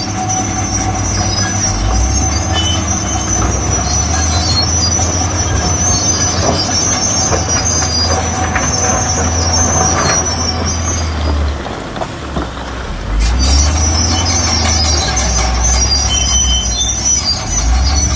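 Crawler bulldozer working: its heavy diesel engine running under load with the high-pitched metallic squeal of its steel tracks. The engine eases off briefly about two-thirds of the way through, then picks up again.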